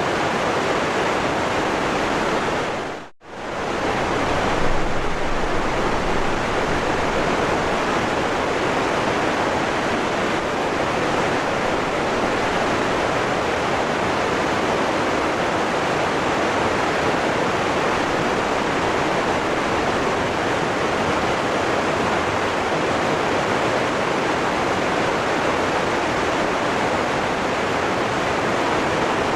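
Steady rushing of a waterfall, an even roar of falling water. About three seconds in, the sound briefly fades out almost to silence and straight back in.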